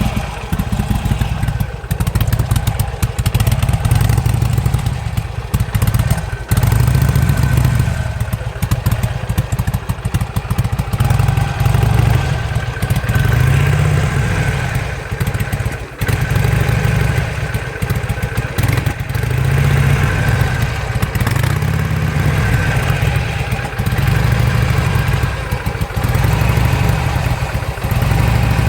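2007 Harley-Davidson Sportster's air-cooled V-twin running, its sound swelling and falling every couple of seconds with a few short dips. The bike has lost most of its power, backfires and stalls when the throttle is opened.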